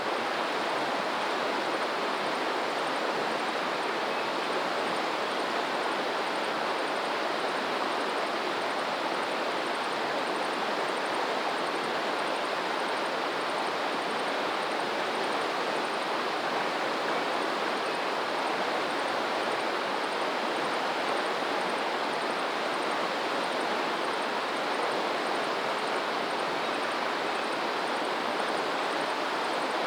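Steady rush of flowing water, even and unbroken, with no rise and fall of waves. A faint, high-pitched chirp repeats a few times a second over it, pausing briefly about halfway through.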